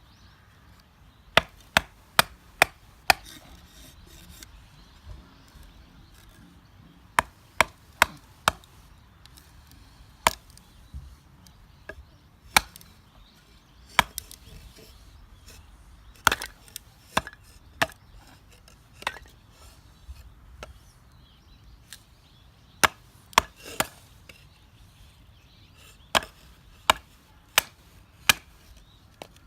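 Firewood being split with a knife: sharp wooden knocks in quick runs of three to five blows, with pauses of a few seconds between runs.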